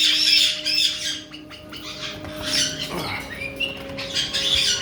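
Caique parrots chirping and squawking in quick, repeated high calls, busiest in the first second, then scattered calls with a falling call about three seconds in. A faint steady hum runs underneath.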